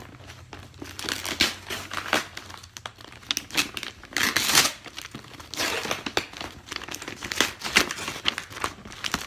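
Packaging crinkling and rustling as a large mailed parcel is handled and opened by hand, with some tearing; irregular bursts, loudest about four to five seconds in.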